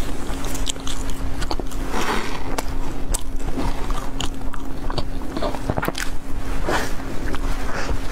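Close-miked biting and chewing of a large crusty bread bun, with short crackles from the crust at irregular moments, over a steady low hum.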